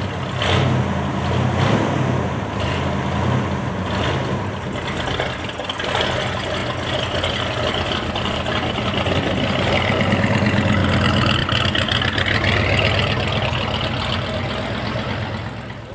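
Car engine running loudly and steadily, with a rise and fall in pitch about two-thirds of the way through.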